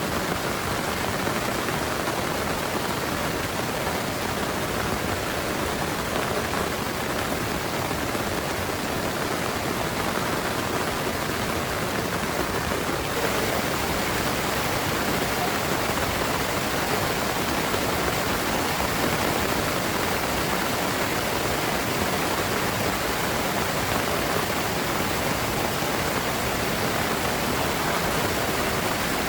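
Heavy rain pouring steadily, a dense even hiss that grows a little louder a little under halfway through.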